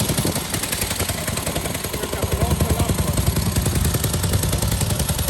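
Vehicle engines running with a steady, pulsing low rumble, and faint voices in the background.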